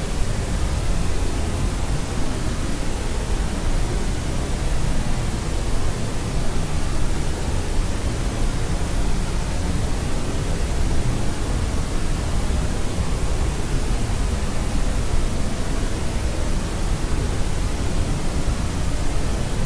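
Steady generated white noise for sleep: an even, unchanging hiss with more weight in the low end, no events or changes.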